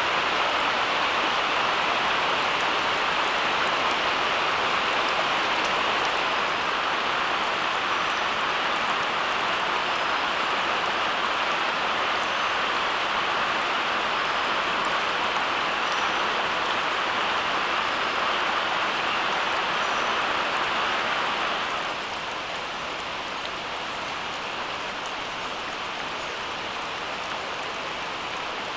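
Steady rushing hiss, like heavy rain falling. About 22 seconds in it drops a little in level and turns duller.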